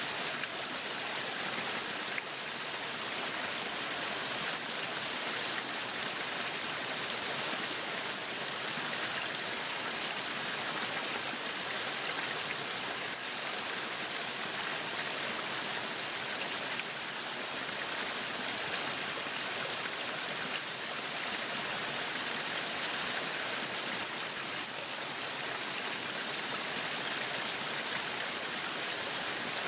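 Meat sizzling on a yakiniku grill: a steady, unbroken sizzle with fine crackling.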